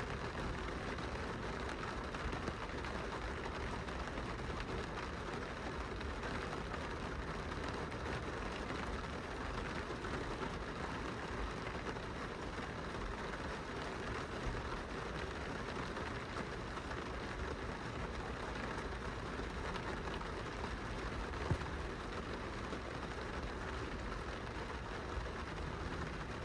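Steady rain falling on window glass, a continuous patter of drops over a low rumble, with an occasional single louder drop.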